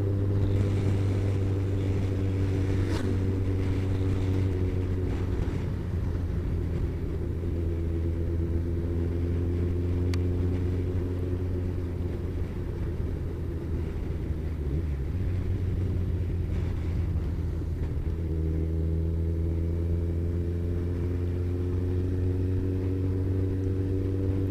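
Kawasaki ZZR1400 motorcycle's inline-four engine running at a steady cruising speed, a constant drone with wind and road noise.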